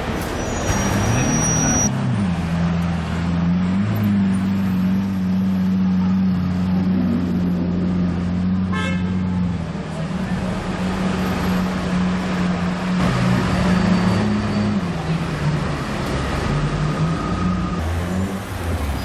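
Car engine running at low revs, its low hum steady with small rises and falls in pitch, over street traffic noise.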